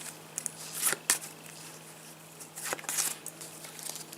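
Match Attax football trading cards being handled and flicked through one by one: short, light rustles and flicks, bunched about a second in and again near three seconds, with a quieter stretch between.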